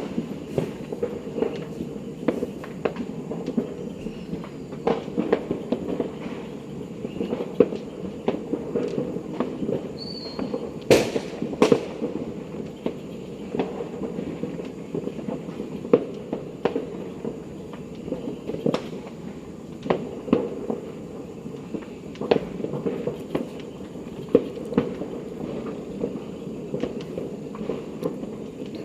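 New Year fireworks and firecrackers going off all around: a steady run of scattered pops and crackles over a constant background haze, with two louder sharp bangs about eleven and twelve seconds in.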